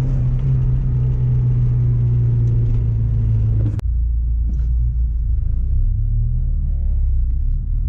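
Car engine and leaky exhaust droning steadily while driving; the exhaust leak makes it a little louder. A sharp break comes a little under four seconds in, after which a lower steady rumble continues.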